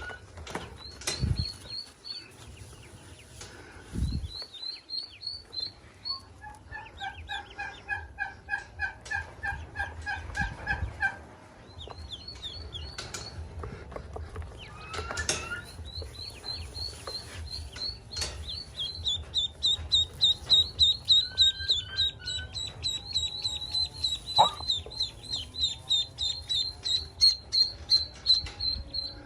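Ducklings peeping: high, short peeps in quick runs that grow denser and louder from about 19 s on. A lower repeated call comes at about 7 to 11 s, and there are a couple of thumps in the first few seconds.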